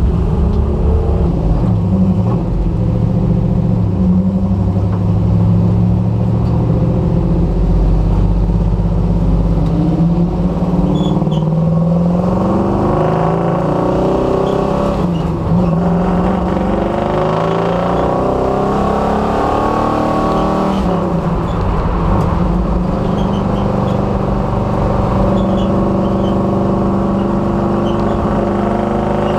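1966 Dodge Dart race car's engine, heard from a camera on its hood, running at low speed and then accelerating through the gears. Its pitch climbs and drops back at each upshift, then holds steady over the last few seconds.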